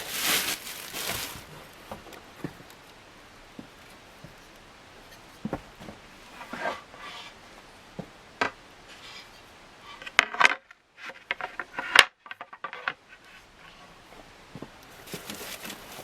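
Ceiling fan blades and their packaging being handled: scattered light knocks, clicks and rustling, with a quick run of sharp clicks about ten seconds in.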